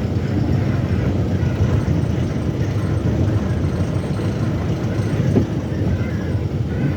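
A vehicle running, with a steady low rumble of engine and road noise.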